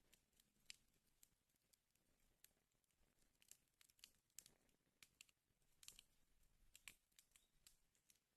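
Wood fire crackling faintly in a fireplace: irregular sharp snaps and pops, with a small cluster of them about six seconds in.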